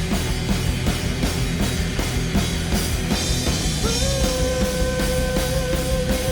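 Rock band playing an instrumental passage: a drum kit keeps a steady, driving beat under the full band. About four seconds in, a long held note comes in over it.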